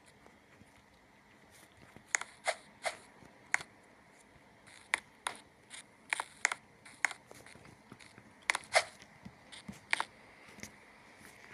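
A series of irregular sharp clicks and taps, starting about two seconds in, over a faint steady background.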